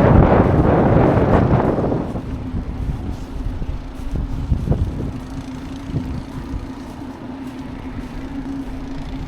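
Wind buffeting the microphone for about two seconds, then a motor vehicle's engine running with a steady low hum amid snowy street ambience.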